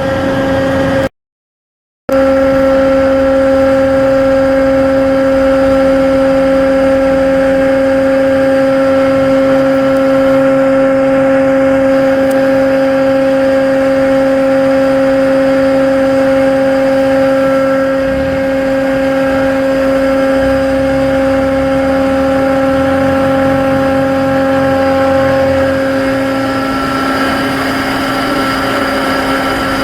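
Cargo ship's diesel machinery running steadily under way, a constant droning hum with a steady pitch. It cuts out completely for about a second near the start.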